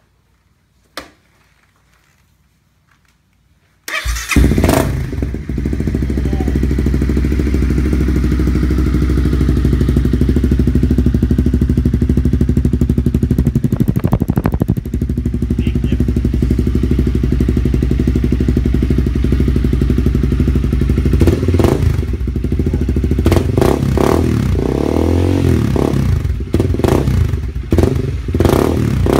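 Honda CB300F's single-cylinder engine, breathing through an aftermarket M4 performance exhaust, starts up suddenly about four seconds in, after one faint click, and settles into a loud, steady idle. Near the end the engine note rises and falls several times as the throttle is blipped.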